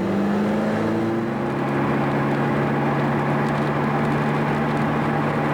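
Car engine droning steadily at cruising speed, with tyre and road noise, heard from inside the cabin; the engine note rises slightly about a second in, then holds level.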